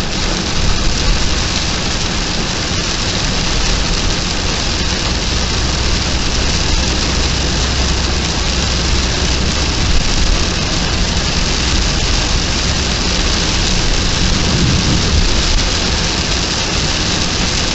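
Heavy rain falling steadily in a dense, even hiss, with a low rumble underneath.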